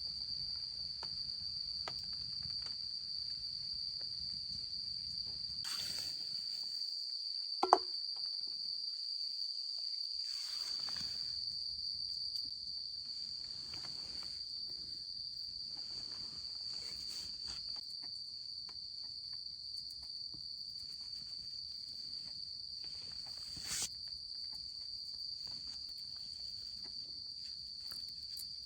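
Insects trilling in one steady, unbroken high note, with faint scattered clicks. A single short, sharp clink sounds about eight seconds in.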